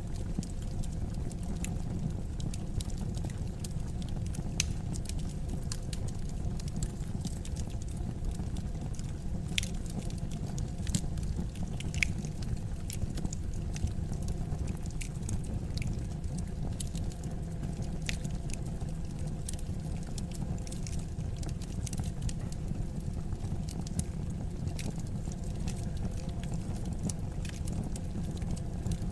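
Wood fire crackling in a fireplace: a steady low rumble of flame with irregular sharp crackles and pops throughout, a few louder pops about ten and twelve seconds in.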